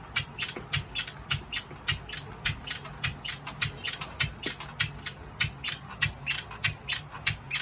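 NordicTrack S22i exercise bike squeaking in a quick, regular rhythm as it is pedalled, about four squeaks a second over a low steady hum. The squeak comes back with the bike tilted to a negative incline.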